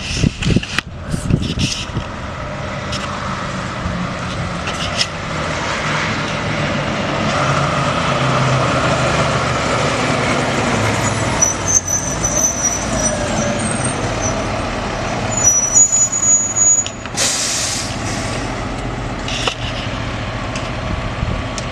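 Fire department ladder truck's diesel engine running as it pulls in, with a short loud hiss from its air brakes about seventeen seconds in.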